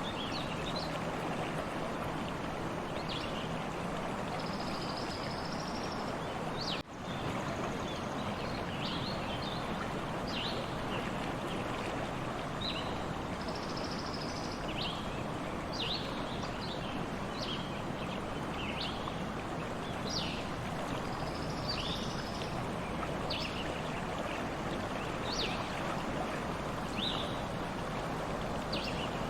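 Stream water flowing steadily, with birds chirping in short, high calls every second or two and a few longer whistled notes. The sound drops out for a moment about a quarter of the way in.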